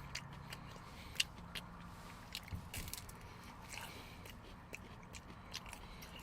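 A person chewing a bite of food close to the microphone, with scattered small crunching clicks, the sharpest about a second in.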